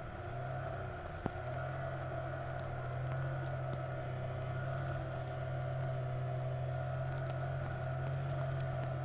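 An engine running at a steady speed, a constant low hum with a few higher tones over it, easing slightly in the first second before settling, with one sharp click about a second in and faint scattered ticks.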